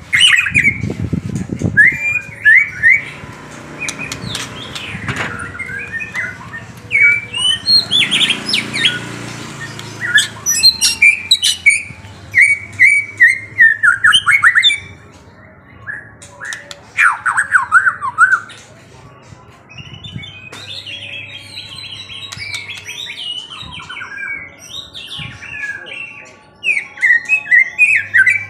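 A songbird singing and calling: a busy run of sharp chirps and rapid trilled phrases, with a couple of short pauses.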